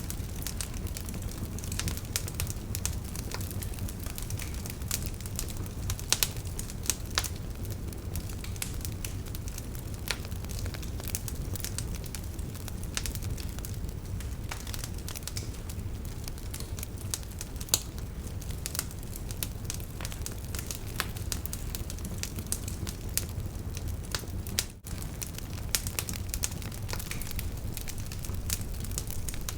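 Wood campfire burning, crackling and popping in irregular sharp snaps over a steady low rumble of the flames, with a momentary dropout about 25 seconds in.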